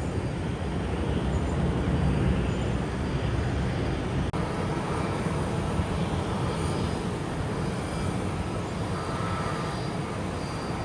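Jet airliner engines running as a steady rumble, heaviest in the low end and a little louder about two seconds in, with a brief click about four seconds in.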